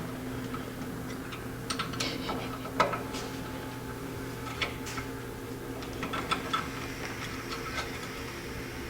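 Scattered light clicks and clinks of tools and small metal parts being handled while a carburetor is taken apart, the sharpest about three seconds in, over a steady low hum.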